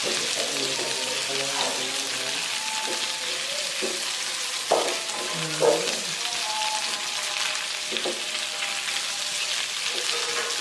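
Sliced sausages sizzling in hot margarine with shallots and garlic in a nonstick wok while a spatula stirs them, with a couple of louder scrapes of the spatula against the pan around the middle.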